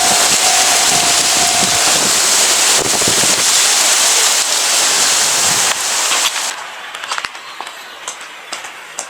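Izuhakone Railway Sunzu Line train passing close by over the narrow level crossing: a loud rush and rattle of wheels on the rails that drops away about six and a half seconds in as the train clears, leaving a few faint clicks.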